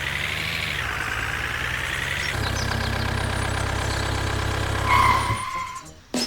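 A vehicle engine running steadily, its tone shifting about two and a half seconds in, with a short higher tone near five seconds before the sound fades out near the end.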